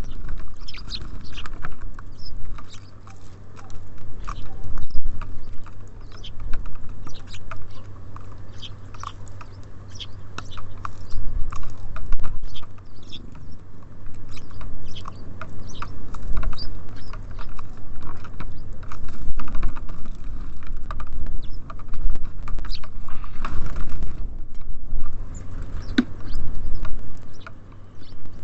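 Small songbirds at a feeder: many short chirps and calls, mixed with quick taps and pecks at the seed. A steady low rumble runs underneath.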